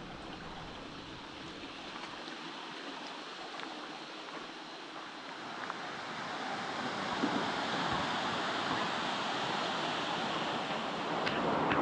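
Waterfall rushing steadily, a wide even roar of falling water that grows louder about halfway through.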